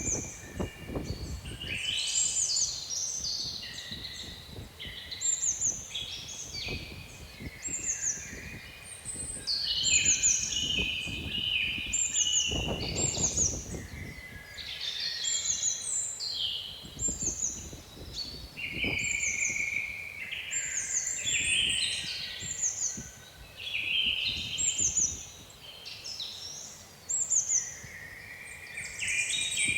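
Several songbirds singing and chirping, with a short, high, falling note repeated about once a second over lower warbling phrases. Gusts of wind rumble underneath, strongest about thirteen seconds in.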